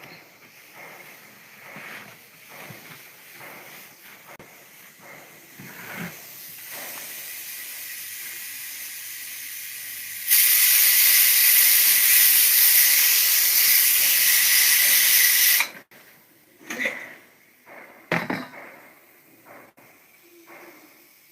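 A loud, steady hiss lasting about five seconds that cuts off suddenly, after a few seconds of quieter hiss, with a few light knocks before and after.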